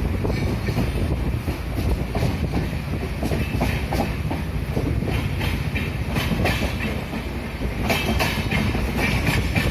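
Running passenger express train heard from on board: a steady rumble of wheels on the track with rapid clickety-clack over rail joints, the clatter turning harsher and brighter about eight seconds in.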